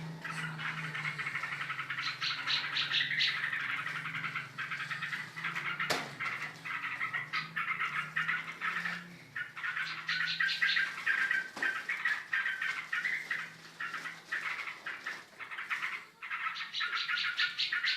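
Yellow-vented bulbul and grey-cheeked bulbul singing against each other in bouts of fast, chattering, trilling phrases. A low steady hum runs under the first half, and there is a single sharp click about six seconds in.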